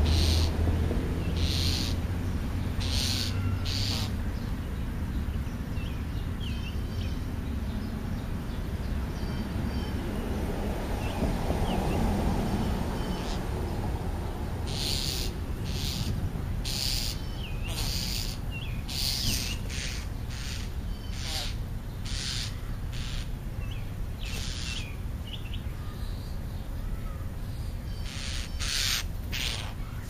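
Wild birds calling at a feeding spot: short, harsh calls come a few at a time near the start and then in quick, irregular runs through the second half, over faint chirps of small songbirds.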